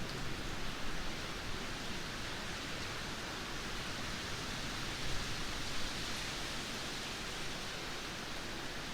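Heavy rain falling in a dense, steady hiss, with a few slightly louder gusts around the middle.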